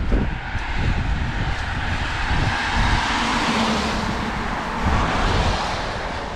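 A vehicle passing on a wet road: tyre hiss swells to a peak in the middle and fades again, with wind gusts buffeting the microphone throughout.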